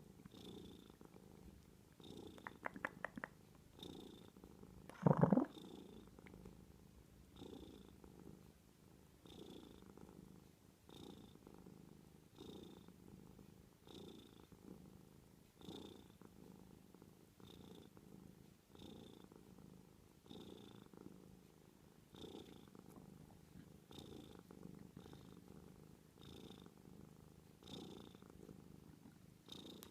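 Domestic cat purring softly in a steady rhythm, one pulse with each breath. About five seconds in it gives one short meow, the loudest sound here, just after a quick run of clicks.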